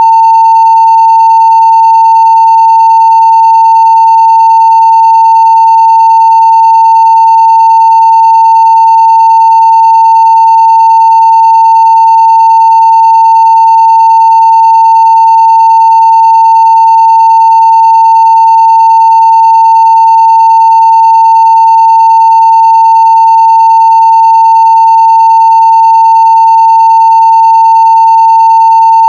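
A 900 Hz sine-wave test tone at full scale (0 dB), holding one pitch without a break. Faint higher overtones sit well below it.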